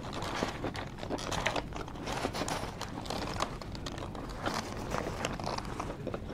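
A person chewing a mouthful of cheesesteak sandwich, with irregular wet mouth clicks and smacks.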